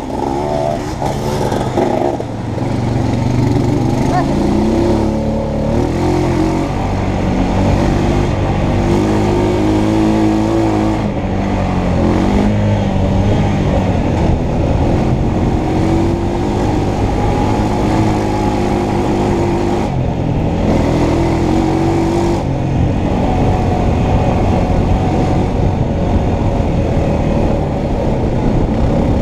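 2016 Honda Foreman Rubicon ATV's engine running hard on a trail ride, its pitch climbing and dropping several times as it accelerates and backs off.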